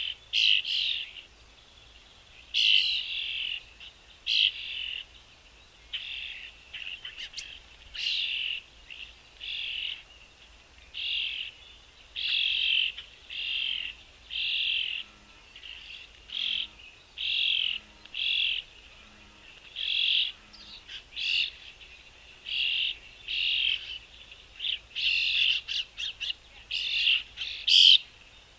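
Small songbirds chirping over and over, short sharp calls about once or twice a second with brief pauses between.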